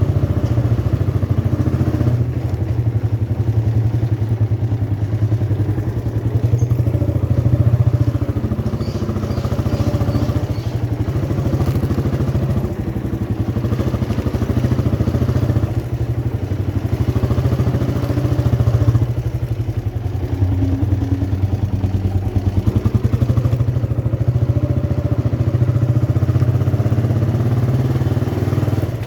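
Motorcycle engine running steadily, a low pulsing drone at an even level.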